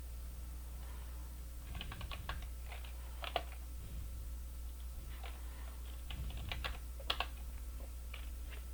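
Computer keyboard typing in irregular clusters of clicks, keystrokes entering CAD commands, over a steady low electrical hum.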